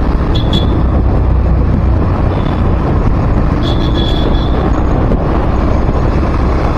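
Steady low rumble of road and wind noise from a vehicle moving along a city road, with two short, high, thin tones, about half a second in and again around four seconds in.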